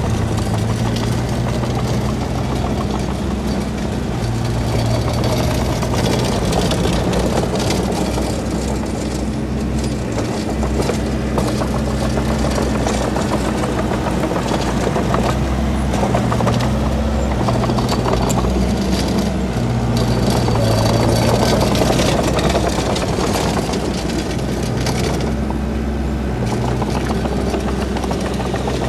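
Heavy diesel earthmoving machine running under changing load. Its low engine hum swells and eases every few seconds, with steady clanking and rattling over it.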